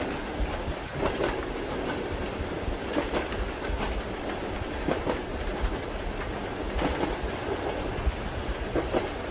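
Train wheels clacking over rail joints, heard from inside a moving railway carriage, with steady rain alongside.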